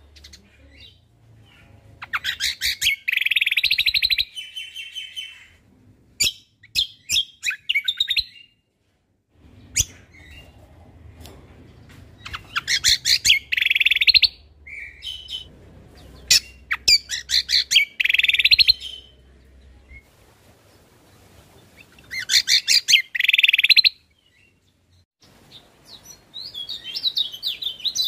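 Cucak kombo (kecial kombok) singing in loud bursts of rapid, fast-changing chirping notes, each one to two seconds long, repeated about every four to five seconds with short pauses between.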